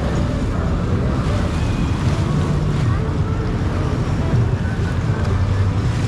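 Jet ski running at speed: a steady engine drone mixed with rushing water and wind buffeting the microphone.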